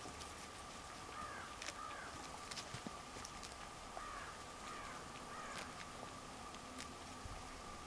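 Faint outdoor ambience: distant birds calling several times in short calls, over a steady faint tone, with scattered light clicks.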